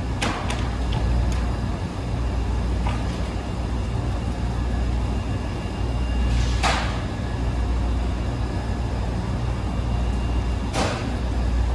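Wascomat Senior W125 35-pound commercial washing machine running with a steady low hum, broken by three brief whooshes: one right at the start, one a little past the middle and one near the end.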